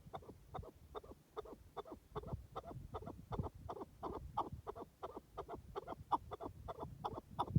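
Chukar partridge calling: a fast, even run of short clucking notes, about four a second.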